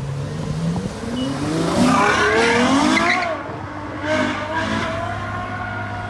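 A Ferrari sports car engine accelerating hard, its revs climbing for about three seconds. The revs drop at a gearshift, then climb again and hold.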